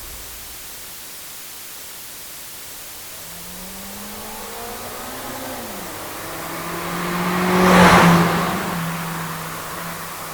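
Passenger car driving past: its engine note rises as it approaches, it passes closest and loudest about eight seconds in, then fades away.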